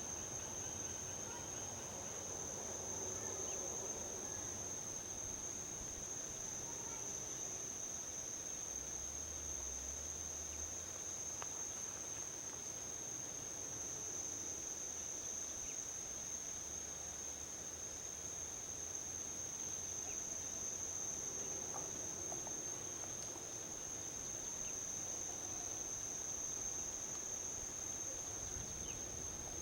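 A steady, high-pitched insect chorus that never breaks, over a soft low rumble of distant highway traffic that swells and fades twice.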